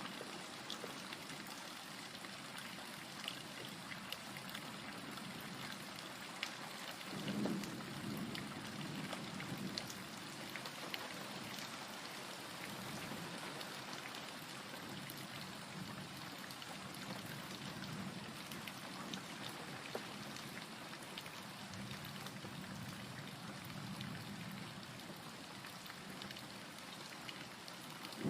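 Steady rain falling on a surface, with scattered drop ticks. Low thunder rumbles swell about seven seconds in and again near the end.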